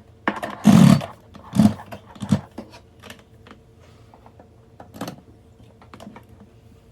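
Handling noise while a Nescafé capsule coffee machine is plugged in: a rustling thump about a second in, a few more knocks, then scattered light clicks.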